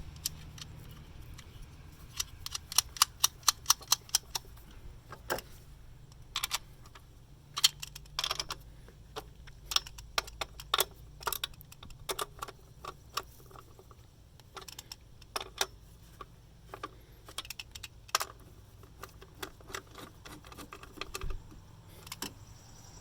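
Hand tools clicking and clinking as the nuts are fastened back on the engine: sharp metallic clicks scattered through, some in quick runs of several a second, like a ratchet wrench being worked.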